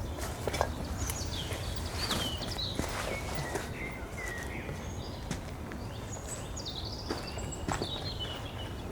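A bird singing a run of short swooping, whistled notes, with scattered footsteps and small clicks underneath and a steady low rumble on the microphone.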